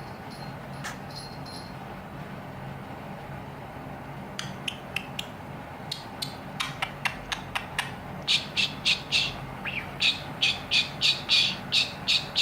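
A budgerigar tapping its beak on the floor in rhythm: sparse sharp clicks at first, then from about two thirds of the way in a fast, louder run of taps, three or four a second. A small bell rings briefly near the start.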